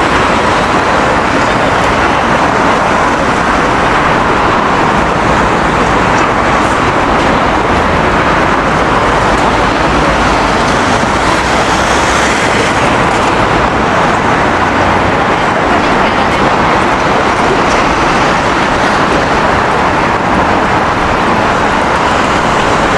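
Steady city street ambience: continuous road traffic noise with no single event standing out.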